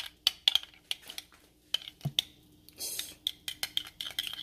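A utensil beating French toast batter in a small bowl, clicking rapidly and irregularly against the bowl's side, with a short rushing noise about three seconds in. The mixture is not combining well.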